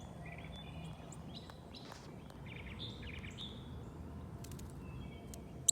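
Birds chirping in short runs of quick, high notes, several bursts a second or so apart, over a low steady outdoor rumble; a sharp click near the end.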